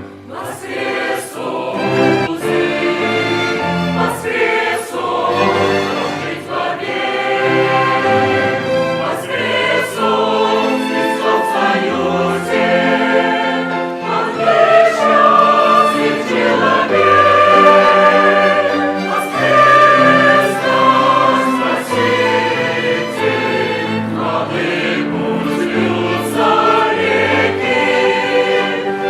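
A church choir singing a hymn in harmony, accompanied by an instrumental ensemble, growing somewhat louder about halfway through.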